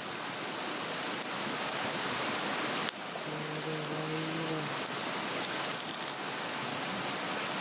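Swedish torch log burning hard, a steady hissing, crackling rush of flame. A single sharp pop about three seconds in, followed by a brief low steady tone lasting about a second and a half.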